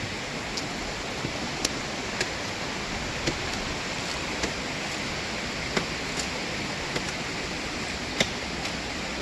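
Steady rushing of flowing stream water, with scattered sharp clicks and knocks at irregular intervals.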